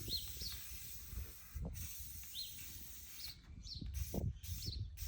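Small songbird chirping outdoors: short high chirps that rise and fall, repeated every half second or so, over a faint steady hiss with a few low bumps.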